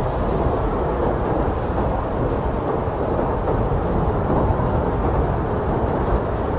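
Blizzard wind blowing hard and steadily: a dense low rushing rumble with no gusting lulls or whistling tones.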